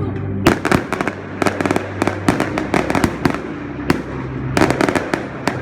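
Fireworks going off in rapid clusters of sharp bangs and crackles, starting about half a second in.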